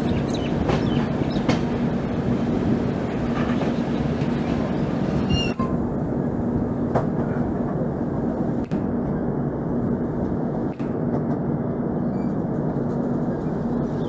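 Passenger train running on the rails: a steady rumble and hum, with a few sharp wheel clicks over rail joints in the first seconds.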